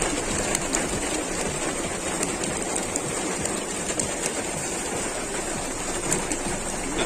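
Heavy rain falling: a steady hiss of downpour with scattered sharp ticks of drops striking.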